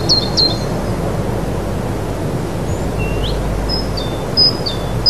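Birds chirping over a steady rushing outdoor background noise. The chirps are short and step down in pitch: a few near the start, then several more spread through the second half.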